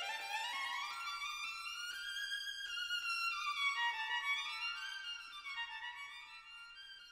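Background music: a violin playing fast runs of notes, climbing in pitch over the first couple of seconds, then stepping down and climbing again.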